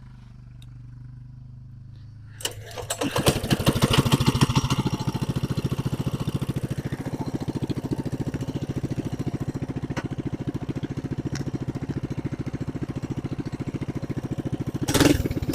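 Coleman BT200X mini bike's single-cylinder engine, running on a straight pipe, starts about two and a half seconds in. It then runs steadily with rapid, even exhaust pulses.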